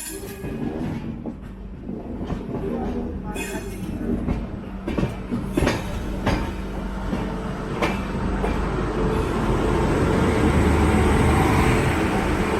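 Passenger train's wheels running on the track, with scattered sharp clicks over rail joints and points, then a louder, steadier rumble building from about ten seconds in.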